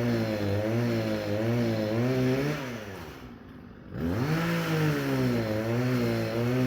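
An engine running with a wavering pitch. A little past two seconds in it drops away in pitch and loudness, then revs back up about a second and a half later.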